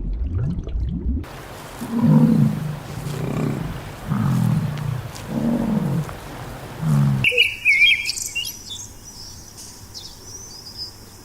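A run of five deep, low animal calls, each under a second long, then, after an abrupt change, bird chirps and high twittering.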